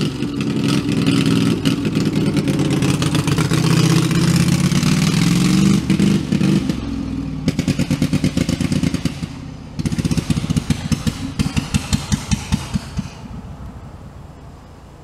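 Homemade redneck tractor's engine revving hard for about six seconds, then dropping to a slower, uneven firing beat that dies away near the end.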